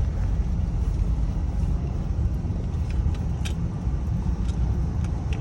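Steady low rumble of a car heard from inside the cabin, with a few faint ticks about three seconds in.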